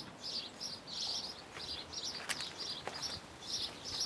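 Small birds chirping over and over in quick, even repeats, about two or three short high chirps a second, with a few faint clicks among them.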